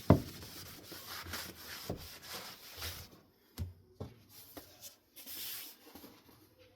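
Hand cleaning of ceiling fan parts: a knock, then about three seconds of scratchy rubbing or scrubbing, followed by a few scattered taps and clicks.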